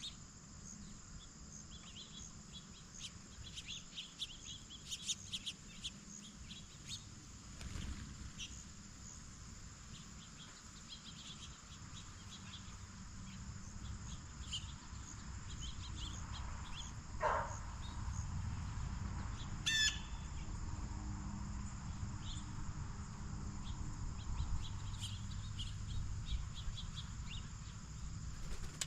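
Steady chirring of crickets or other insects, with scattered short bird chirps and one louder bird call about seventeen seconds in. Under it runs a low rumble that grows louder past the middle.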